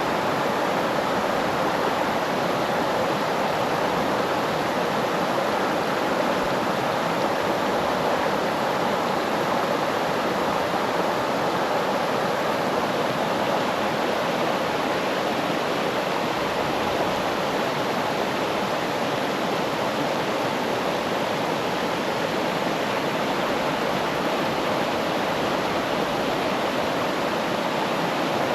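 Steady rush of flowing water, an even unbroken noise at constant level.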